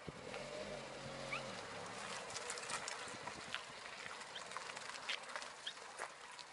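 Volkswagen Golf 1.4 TSI petrol engine heard faintly as the car pulls away, its hum fading out after about a second and a half. Scattered bird chirps and calls run through the rest.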